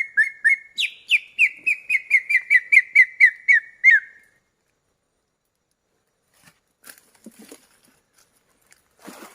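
Bird-luring whistle call: a fast run of downward-sweeping whistled notes, about three a second, over a steady whistled tone, stopping about four seconds in. Faint rustling and clicks follow.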